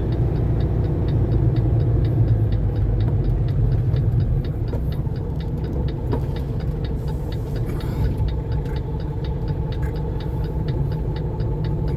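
Semi truck's diesel engine idling, heard inside the cab, with a turn signal clicking steadily at about three to four ticks a second while the truck waits to pull out. The engine gets a little quieter about four seconds in.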